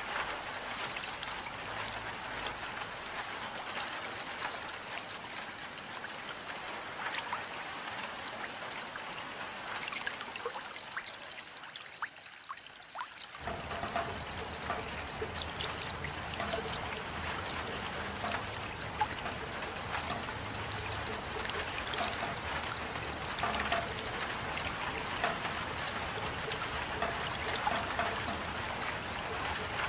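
Steady rain falling, with drops pattering and water trickling. About twelve seconds in it thins for a moment, then comes back abruptly with heavier dripping and a low rumble.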